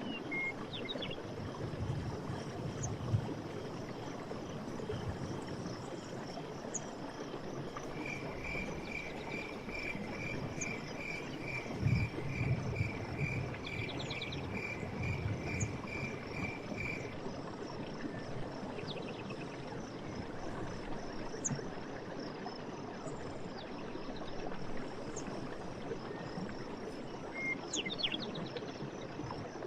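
Forest stream water running steadily, with a continuous high trill and birds chirping here and there. About eight seconds in, a run of short, evenly spaced notes repeats roughly twice a second for about nine seconds.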